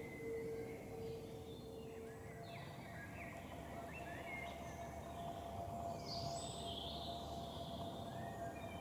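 Small birds chirping and calling, many short notes in quick succession, over a steady low rumble.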